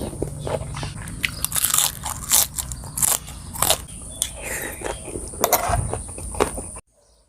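Close-miked crunchy biting and chewing of food, many sharp crunches in quick irregular succession, cut off abruptly just before the end.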